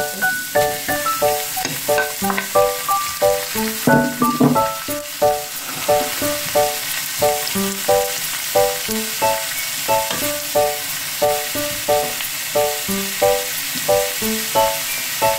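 Shredded carrot and apple sizzling in a frying pan as a wooden spatula stirs them. Over it runs background music of quick, short, bright notes in a steady rhythm, the most prominent sound.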